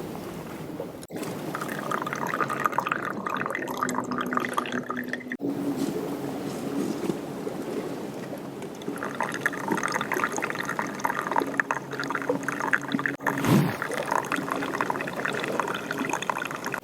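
Water pouring and trickling, in several short stretches with sudden cuts between them.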